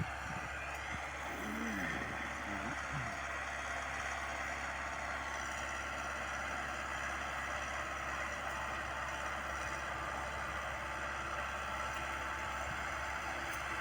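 Massey Ferguson 385's four-cylinder 85 hp diesel engine running steadily while pulling an 18-disc offset disc harrow through the soil.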